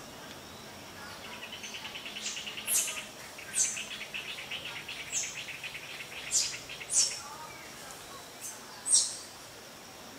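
Wild birds calling: sharp, high chirps that drop in pitch, one every second or two, over a fast, even trill that starts about a second in and stops about seven seconds in.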